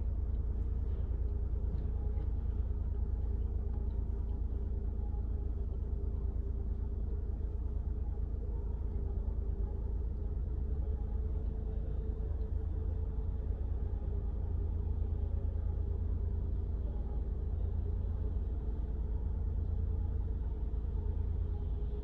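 Mini Cooper's warm engine idling steadily, heard from inside the cabin as a low, even rumble. It is held at idle with no pedals pressed while the car's electronic sensor measures the oil level.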